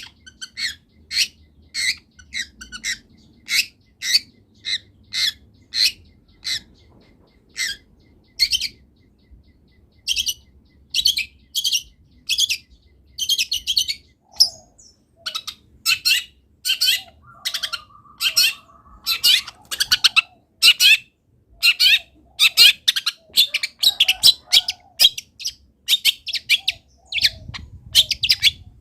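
Long-tailed shrike (cendet) singing loudly: a long run of short, sharp calls repeated about once or twice a second.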